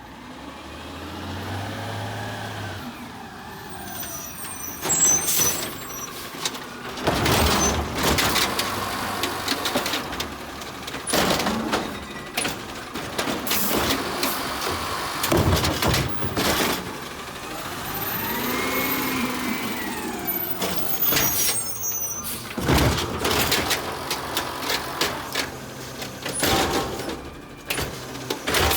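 Garbage truck at work: its engine revs up and down as it collects bins, with repeated clanks and air-brake hisses.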